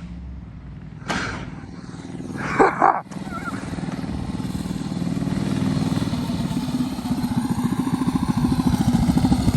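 Gas mini bike's small engine running with an even pulsing note, growing steadily louder over the last several seconds as the bike approaches. A brief shout comes about two and a half seconds in.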